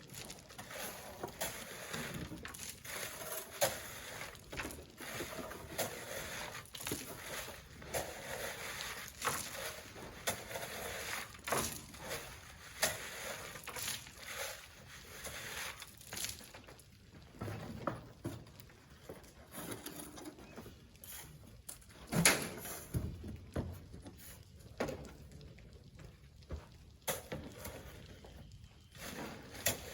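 Shovels scraping and scooping sand, with irregular knocks and rustles as the sand is worked and thrown; one sharper knock about three-quarters of the way through.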